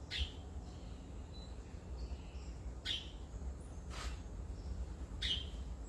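A bird calling: four short, high chirps that slide downward, spread a second or more apart, over a low steady rumble.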